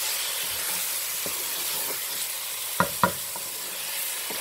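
Mutton and bitter gourd curry sizzling in oil in a pot while a spatula stirs and scrapes through it, the masala frying with paprika for colour. Two sharp knocks of the spatula against the pot about three seconds in.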